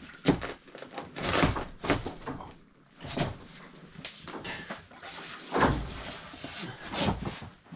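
A series of irregular knocks and thumps, about half a dozen spread unevenly, with quieter shuffling between them.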